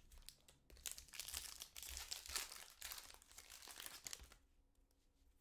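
Plastic trading card pack wrapper being torn open and crinkled by hand, a dense crackling that stops about four seconds in.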